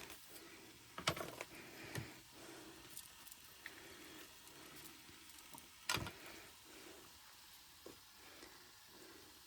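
Scattered light knocks and clatter of camp kitchen things being handled and put away, with one louder knock about six seconds in.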